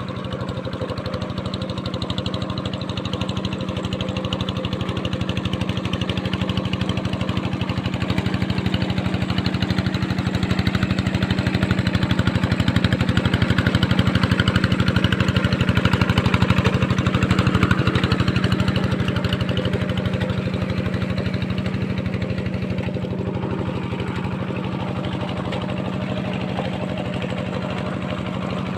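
Diesel tractor engine running steadily with an even firing beat, growing louder toward the middle and then easing off as it moves past.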